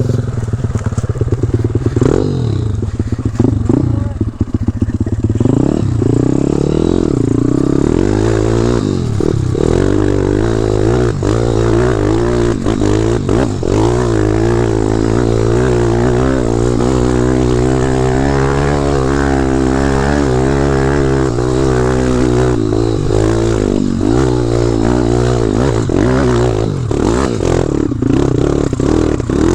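Dirt bike engine running hard as it is ridden, its pitch rising and falling with the throttle and the terrain.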